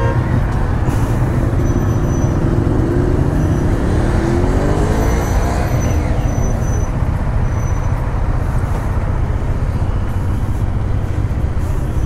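Motorcycle riding at speed: a steady rush of wind noise over a low engine rumble, with a bike's engine note climbing through the gears and dropping again in the first half.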